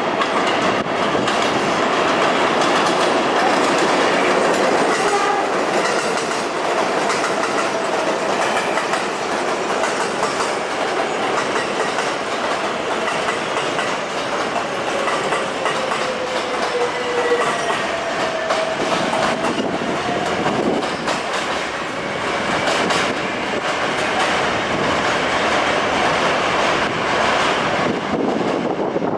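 Kawasaki R143 subway train bypassing a station at speed: a loud, steady rush of steel wheels on rail with clickety-clack over the rail joints, and a few faint wavering tones above it.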